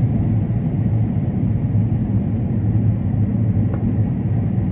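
Combine harvester running steadily while cutting corn: a constant low rumble.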